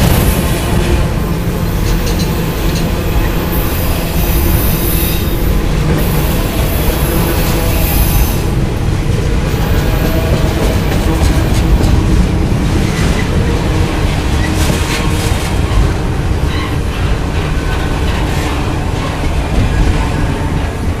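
Auto-rack freight cars rolling past on steel wheels, a steady loud rumble and clatter over the rails, with some high wheel squeal in the first several seconds.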